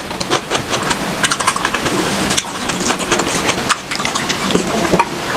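Close-miked eating of pork: irregular crunching, chewing and mouth clicks, dense and continuous.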